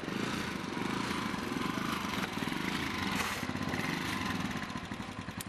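Small motorcycle engine running with a steady rapid beat, easing off toward the end.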